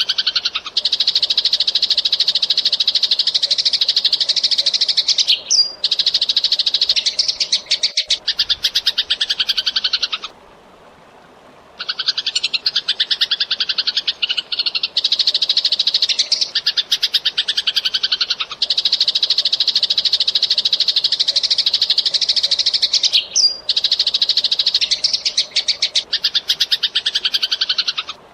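Eurasian tree sparrow chirping in fast, tightly packed runs of high-pitched notes, stopping for about a second and a half near the middle before starting again.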